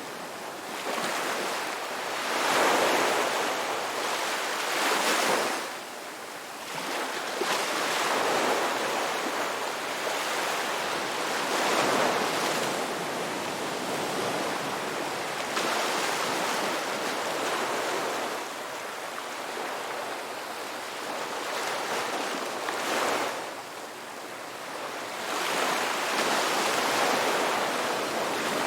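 Ocean waves breaking and washing on the shore, a continuous surf hiss that swells and ebbs every few seconds.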